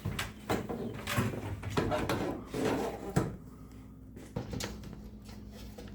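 Irregular knocks, clanks and scrapes of garage door opener rail hardware being handled and fitted. They are busiest in the first three seconds, followed by a few lighter ticks.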